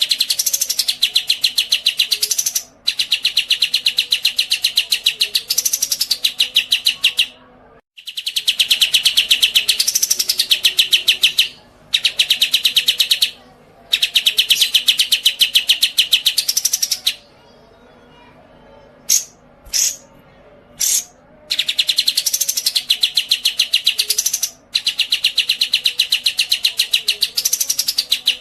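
Caged songbird singing in long runs of very rapid repeated high notes, each run lasting a few seconds with brief pauses between, with a few short single calls in the middle and a rising-then-falling swoop now and then within the runs.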